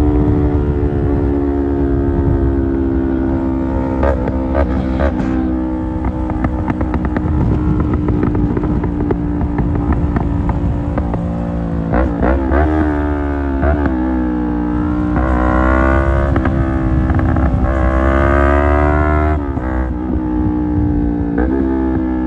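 Yamaha R25's 249 cc parallel-twin engine through an Akrapovic exhaust while riding, running at a fairly steady pitch for the first half. From about halfway it revs up and drops back again and again in quick sweeps.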